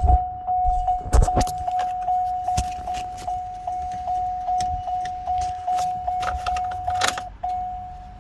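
A vehicle's dashboard warning chime ringing steadily, one tone repeating about twice a second, while keys jangle and click near the start, about a second in and near the end.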